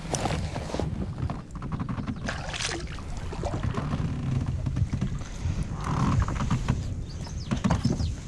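A hooked bass being brought in beside a kayak: water splashes and scattered knocks against the hull, over a steady rumble of wind on the microphone.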